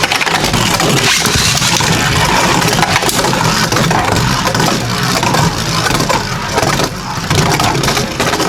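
Two Beyblade Burst Turbo tops, Kerbeus K4 and Blizzard-X Gaianon, spinning in a plastic Rail Rush stadium: a steady loud whirring scrape with frequent sharp clacks as they hit each other and the walls.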